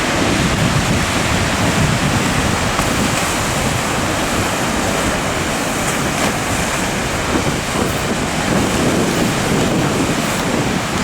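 Ocean surf breaking, with a steady wash of water and wind buffeting the microphone.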